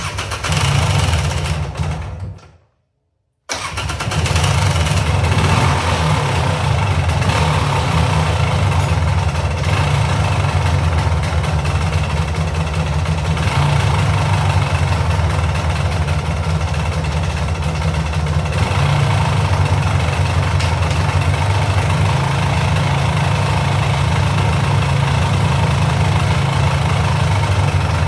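Polaris Sportsman 400 ATV's liquid-cooled two-stroke engine running, freshly got going after its clogged carburettor pilot jet was cleaned. The sound breaks off completely for about a second near the start, then the engine runs steadily throughout.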